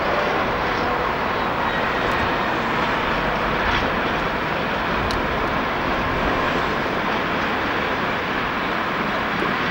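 A diesel train running past, a steady, even roar with a faint hum of engine tones.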